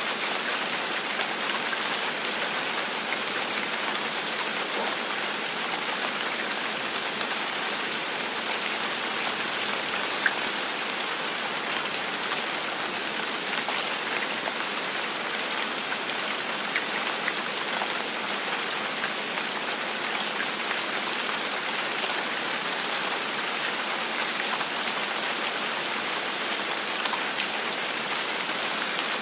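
Steady gentle rain falling on a surface, an even hiss scattered with light individual drop ticks.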